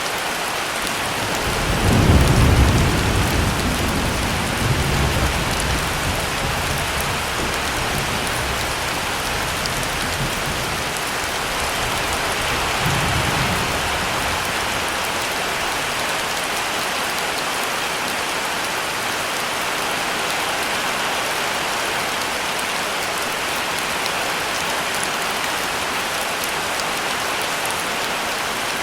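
Heavy rain falling steadily, with a low rolling thunder rumble starting about a second and a half in, loudest around two to three seconds in and fading over a few seconds. A fainter rumble follows near the middle.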